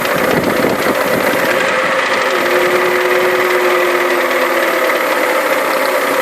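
Honda B20B 2.0-litre four-cylinder engine in a Honda CR-V RD1 running with a steady, rapid clicking chatter. The valves have already been adjusted, so valve clearance is ruled out as the cause of the clicking.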